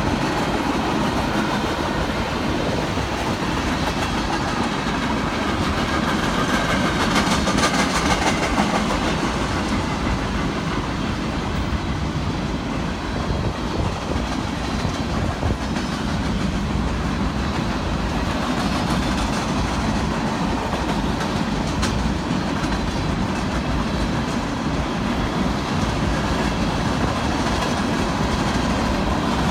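A train rolling past, its cars clattering steadily over the rail joints, a little louder about a quarter of the way in.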